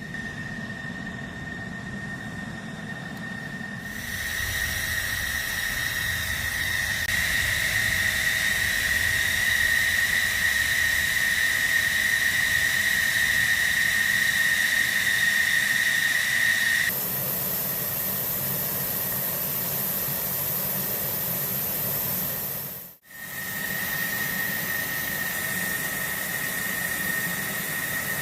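F-16 fighter jet engine running, a steady high-pitched turbine whine over a rush of air. The sound jumps abruptly in loudness and tone a few times, with a brief dropout about three-quarters of the way through.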